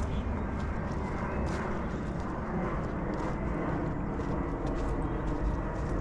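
Footsteps of a person walking on a forest path, irregular crunching steps over a steady low rumble.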